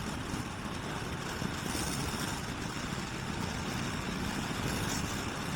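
Motorcycle cruising at motorway speed: a steady rush of wind and engine noise at the rider's camera.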